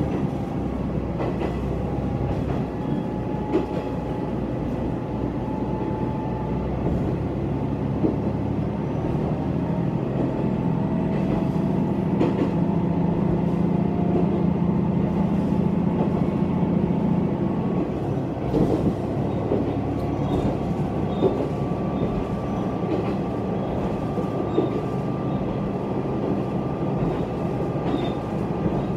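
Diesel railcar running at speed, heard from inside the carriage: a steady drone of engine and running gear with a faint whine that slowly rises in pitch, and scattered clacks of the wheels over rail joints.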